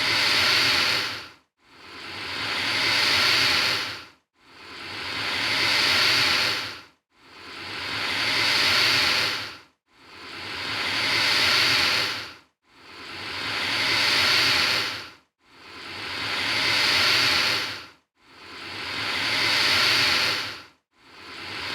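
Alligator hissing, a long breathy hiss repeated about every 2.7 seconds in identical bursts. Each one swells up over about a second, holds, then stops short with a brief silence before the next.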